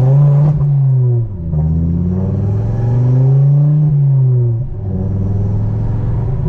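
Turbocharged, fully forged Ford Focus RS engine being revved: one rev is already falling away about a second in, then a second longer rev climbs, holds and drops back to a steady lower running note near the five-second mark.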